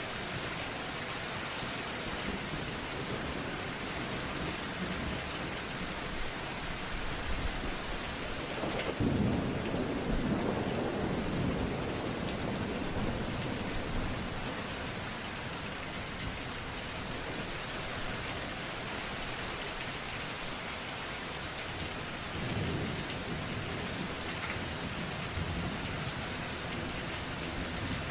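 Steady heavy rain with a long roll of thunder about nine seconds in and a fainter rumble of thunder later.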